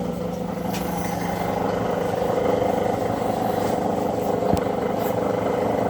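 Zocca 500 metal shaper running, its electric motor and gear train giving a steady mechanical hum, with one short knock about four and a half seconds in.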